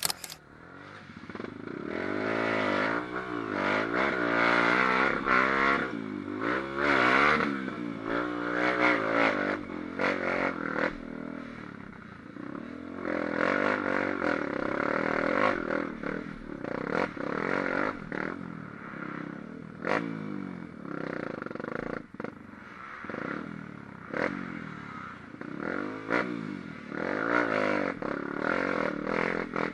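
An engine revving up and down over and over, with scraping and clattering knocks.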